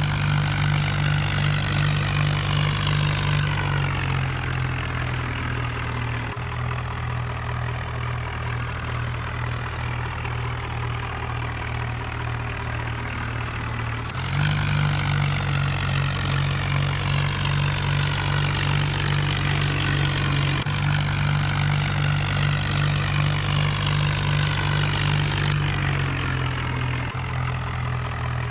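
Tractor engine running steadily at a low, even hum.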